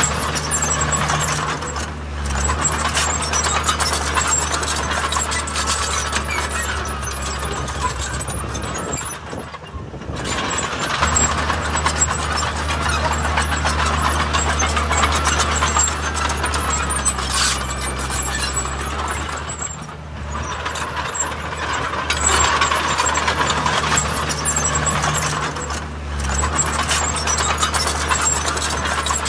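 Bulldozer's diesel engine running under load with continuous metallic track clatter, easing off briefly about ten seconds and twenty seconds in.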